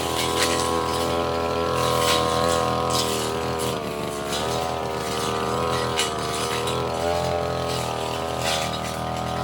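Two-stroke brush cutter engine running at high speed while its blade cuts brush, the pitch sagging briefly about four seconds in as the blade takes load. Sharp ticks every second or two as the blade strikes stems.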